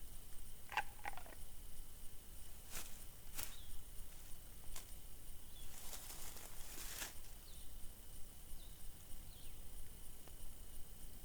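Quiet outdoor ambience: a steady high hum with a few faint chirps, a couple of sharp clicks, and a brief rustle about six seconds in.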